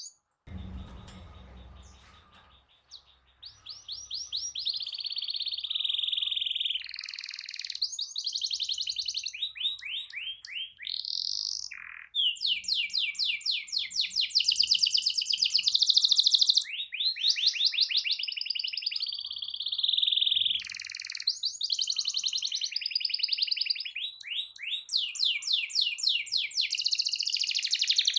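Canary singing long rolling trills, fast strings of rapidly repeated high notes following one after another. A short low thump comes just after the start, before the song picks up.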